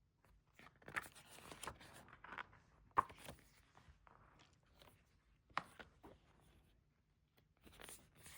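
A CD album's booklet and photo cards being handled: scattered paper rustles and light clicks, the sharpest about three seconds in.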